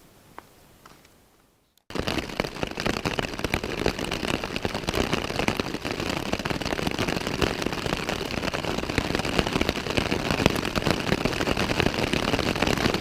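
Bicycle rolling over rough, rocky trail: a dense, irregular crackle and rattle of tyres on gravel and stones with many sharp clicks. It starts abruptly about two seconds in after near quiet.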